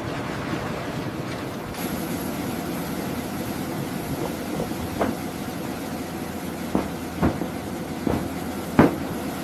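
Heavy machinery running with a steady rumbling noise and a thin high whine from about two seconds in. About five sharp knocks or clanks fall in the second half, the loudest near the end.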